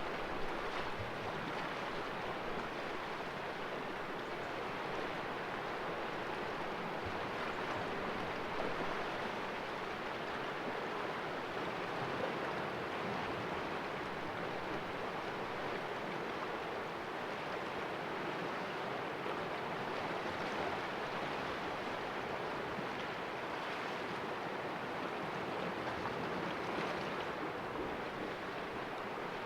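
Sea waves washing and splashing against the rocks of a small cove, a steady, even wash of water with gentle swells.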